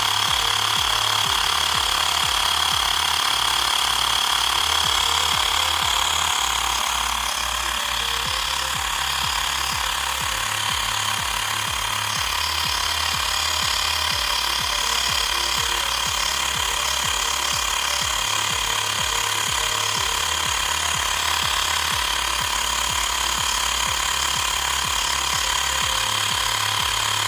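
Xiaomi portable electric air compressor running steadily with a high whine, its pump inflating a car tyre toward a preset 35 PSI.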